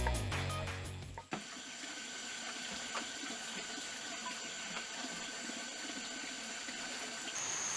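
Background music fades out about a second in, giving way to forest ambience: a steady hiss of running water with insects trilling at a constant high pitch.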